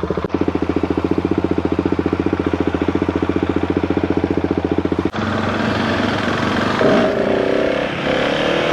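Motorcycle engine running with a steady, rapid low pulsing. About halfway through it cuts abruptly to a different engine sound whose pitch rises in short glides, as with revving or accelerating.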